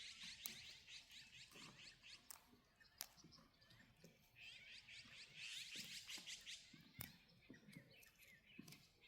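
Faint birdsong: a fast chattering run of high, down-slurred notes that fades about two seconds in and returns from about four to nearly seven seconds, with a few sharp clicks between.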